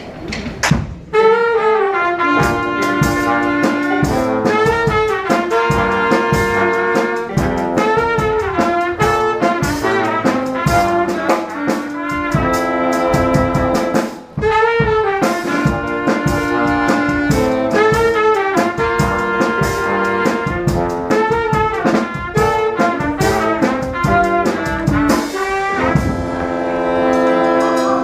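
Brass band music, trumpets, trombones and saxophones playing a lively jazzy tune with quick, regular beats.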